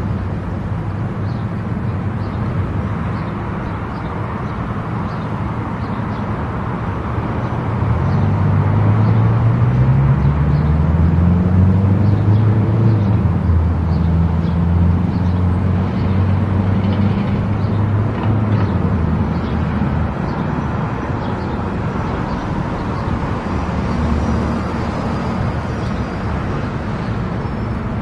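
Car driving at highway speed: steady tyre and road noise under a low engine drone. About eight seconds in, the engine note climbs and gets louder, then settles.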